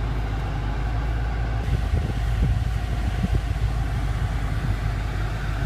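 2014 BMW M5's twin-turbo V8 idling, a steady low hum heard inside the cabin, with a few faint knocks partway through.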